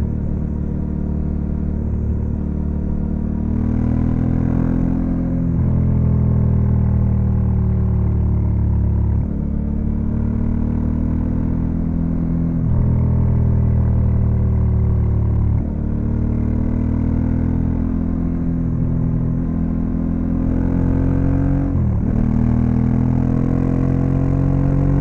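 Honda Africa Twin CRF1100L's parallel-twin engine running under way, its pitch stepping to a new level several times, about every three to six seconds, as the rider moves through the gears. Near the end the pitch briefly dips and then climbs again.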